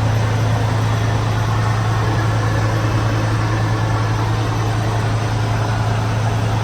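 Semi truck's Cummins X15 diesel engine running steadily: a constant low hum with a rumbling noise over it.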